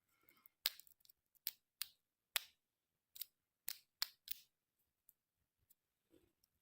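About ten quiet, sharp clicks at irregular intervals over roughly five seconds.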